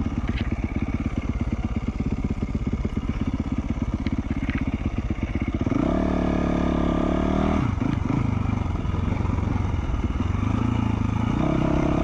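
2020 Yamaha YZ450F's four-stroke single-cylinder engine through an FMF Q4 slip-on exhaust, chugging at low revs, then revving up about halfway through, dropping off briefly and pulling again, rising once more near the end.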